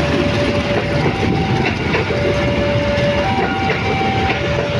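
Passenger coaches rolling past close by, their wheels rumbling and clattering over the rails. Over it, a two-note warning tone takes turns between a lower and a higher note about once a second.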